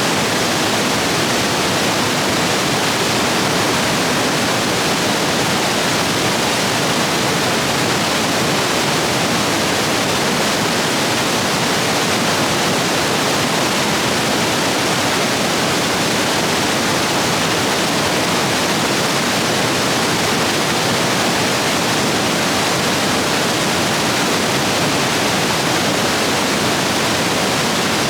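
Rain-swollen stream rapids rushing over rocks: a loud, steady roar of water.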